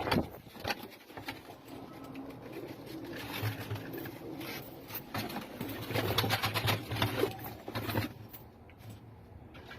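Domestic pigeons cooing, a series of low coos that come thickest around six to eight seconds in.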